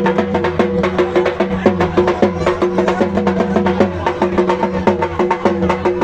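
Fast, steady drumming, several strikes a second, with ringing tones sustained over the beat.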